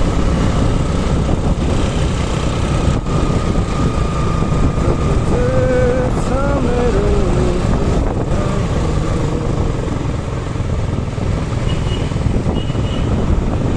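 Suzuki Gixer SF motorcycle under way in traffic: engine running steadily with wind rumbling on the microphone.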